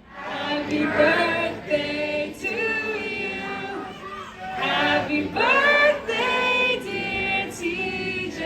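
Live singing by several voices in harmony, with little or no instrumental backing.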